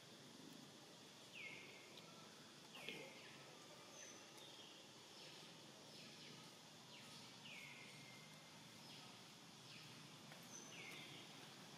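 Faint forest ambience with a bird calling over and over: short notes that drop from a high pitch and settle briefly lower, about four clear ones a few seconds apart, with softer high chirps in between.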